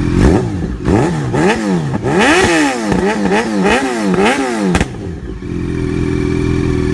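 2011 Yamaha FZ8's inline-four engine through an aftermarket shorty carbon fiber exhaust, idling, then revved in a quick string of about eight throttle blips, each rising and falling in pitch, before settling back to a steady idle near the end.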